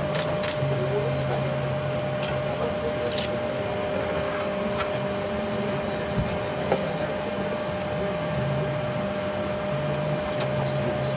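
Steady air-conditioning or ventilation hum with a constant high whine, with a few faint clicks and one small knock.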